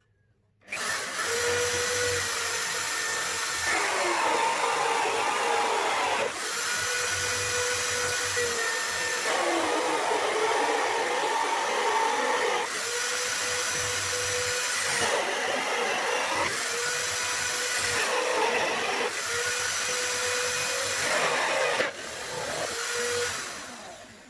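Power drill driving a small hole saw through wood: a steady motor whine with the cutting noise of the saw, starting under a second in. The sound shifts abruptly every few seconds and winds down near the end.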